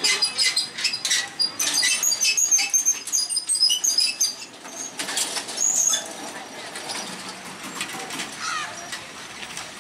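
Birds chirping in many short, high notes, thickest in the first half, over outdoor street ambience with scattered clicks and faint voices.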